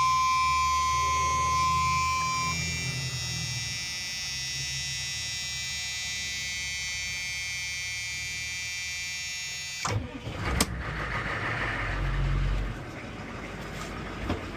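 A 6.5 L turbo diesel engine in a short bus running steadily with a low rumble, and a steady high-pitched whine over it. One tone in the whine stops about two and a half seconds in. The sound cuts off suddenly near the end and gives way to a knock and a brief deeper rumble.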